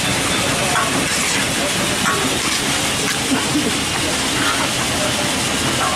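Steady, dense street-side noise with scattered voices of people talking in the background.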